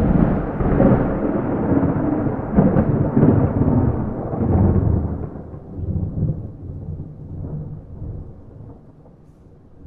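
A thunderclap that breaks in suddenly, then a long rolling rumble of thunder that surges several times before fading away over the last few seconds. No rain.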